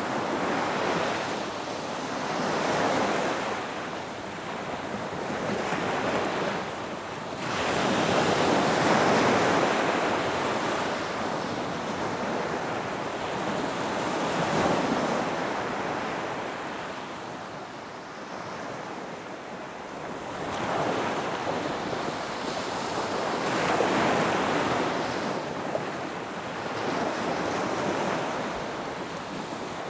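Ocean surf breaking and washing up a beach, each wave swelling and fading over a few seconds, the biggest about eight seconds in.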